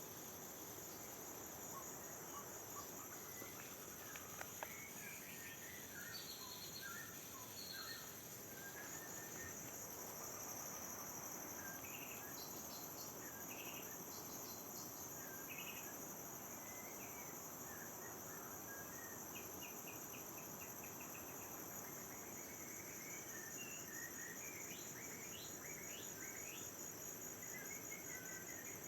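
A steady, high insect chorus runs throughout, while birds chirp and call in short phrases that come and go.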